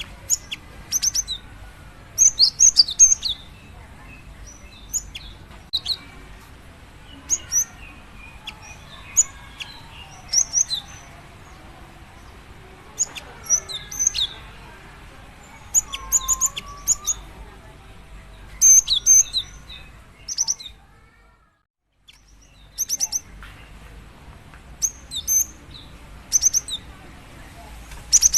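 A female cinereous tit calls to draw in a male: short bursts of high, rapid chirps, repeating every second or two, with fainter lower bird song behind. The sound cuts out briefly about three-quarters of the way through.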